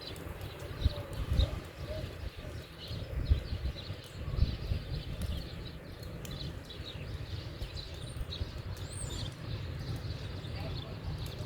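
Wind rumbling on the microphone in a snowstorm, with steady crunching footsteps through snow.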